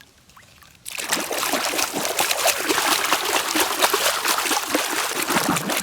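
Water splashing and trickling steadily as a muddy toy vehicle is washed by hand, starting abruptly about a second in.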